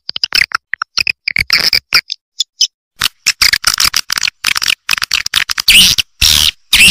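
Swiftlets twittering: rapid, dense high chirps and clicks in irregular clusters, a brief pause about two seconds in, then louder runs of chirps near the end. This is a swiftlet-house roosting call (suara inap), the lure played to attract swiftlets to settle and nest.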